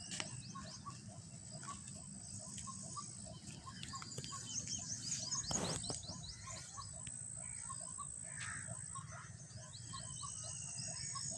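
Birds chirping: many short chirps repeated at a steady pace, with quicker high downward-sweeping calls over a thin steady high tone. One sharp click about five and a half seconds in.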